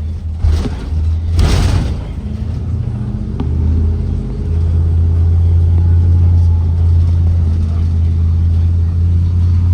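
Ford 7.3L V8 engine of a Blue Bird Vision school bus running under way, heard on board as a steady low drone that grows louder about four seconds in. Two short bursts of hiss come near the start, the second louder.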